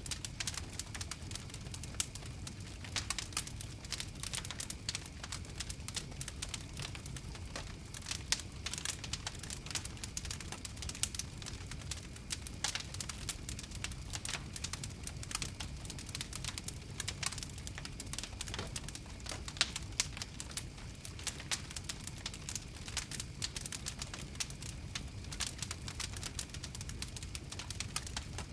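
Wood fire crackling steadily, with many irregular sharp pops and snaps over a low, even rumble of the flames.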